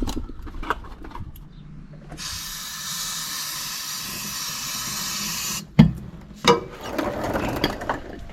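Aerosol can of brake cleaner sprayed in one steady hiss lasting about three and a half seconds, cleaning a surface. Two sharp knocks and some light clatter follow near the end.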